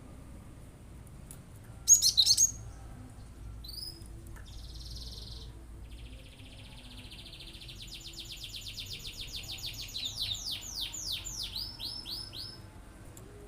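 Cinereous tit (glatik batu) singing its rapid-fire 'tembakan' song: a loud, sharp burst of high notes about two seconds in, then a fast high trill from about six seconds that grows louder and breaks into a run of quick downward-sweeping notes near the end.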